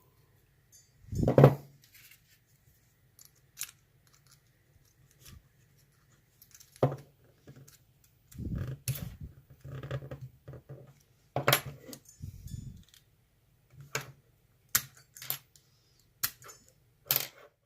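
Metal clicks, taps and knocks of pliers gripping and working at an ASSA euro lock cylinder to get a part off it. There is a loud knock about a second in, and a busier run of clatter and dull thuds in the middle.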